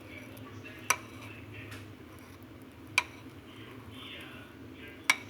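A spoon clinking against a dish three times, about two seconds apart, each strike ringing briefly.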